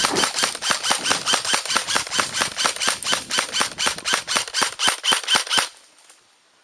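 Airsoft gun firing a rapid, steady string of shots, roughly four or five a second, which stops a little before the end.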